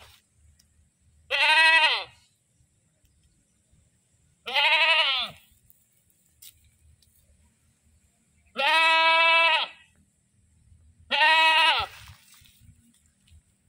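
Goat bleating loudly: four separate calls, each just under a second long and spaced a few seconds apart, with the pitch bending within each call.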